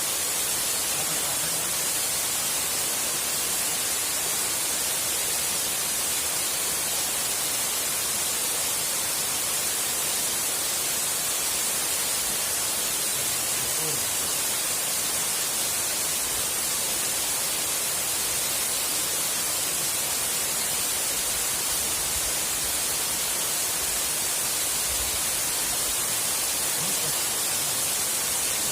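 Waterfall's falling water making a steady, even hiss with no change throughout.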